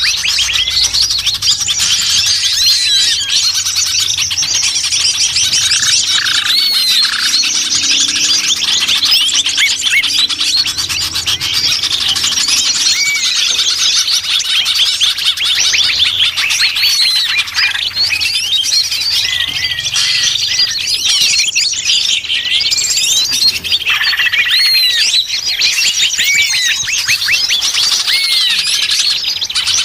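Many small songbirds chirping at once, a dense, busy chorus of overlapping high chirps and short whistled notes, of the kind played as a bird-lure call.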